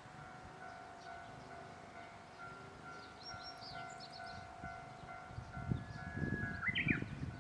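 Railway level-crossing warning bell ringing, a repeating electronic clang, with birds chirping. A low rumble builds near the end as a train approaches.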